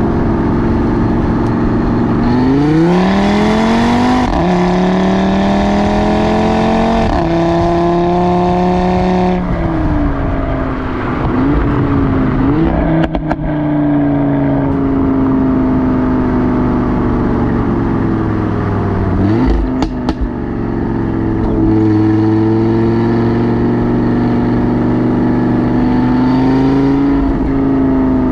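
Audi RS3 8V's turbocharged 2.5-litre five-cylinder engine and exhaust under hard acceleration: the note climbs steeply, drops at quick upshifts about four and seven seconds in, then falls away on lift-off at about nine seconds. A few sharp crackles follow as it slows, and the note climbs again more gently near the end.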